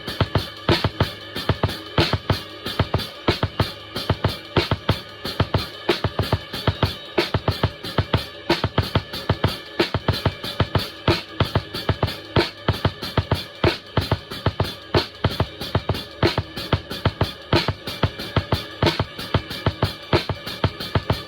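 Drum kit played in a steady, driving beat with bass drum and snare, over a backing music track.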